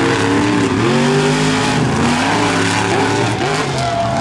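Monster truck engines revving hard, their pitch repeatedly rising and falling as the throttle is worked, with more than one engine heard at once.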